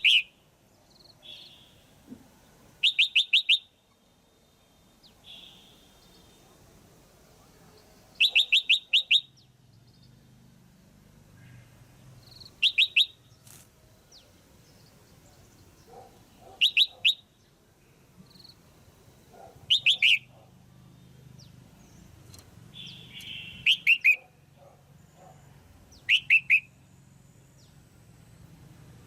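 Female red-whiskered bulbul calling: short bursts of quick, repeated high notes, each under a second, every three to four seconds. This is the female call that keepers play to stimulate male bulbuls.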